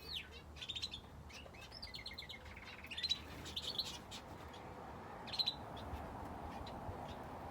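Aviary finches chirping: short, quick calls in bunches, with the last call about five and a half seconds in.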